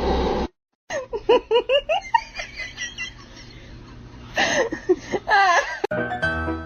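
High-pitched laughter in quick repeated bursts, with a second run of laughing about four and a half seconds in.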